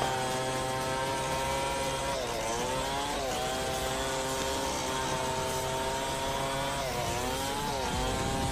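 Chainsaw engine running at high speed, its pitch dipping briefly and recovering twice as it comes under load.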